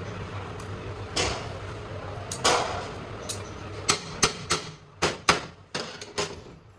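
A series of about ten sharp knocks and taps at uneven intervals, over a steady low machine hum that fades out about halfway through.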